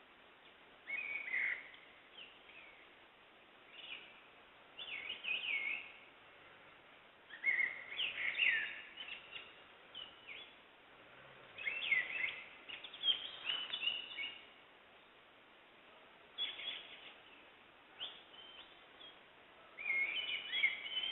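Birds singing in forest: short, bright chirping phrases come every second or two over a faint steady background hiss.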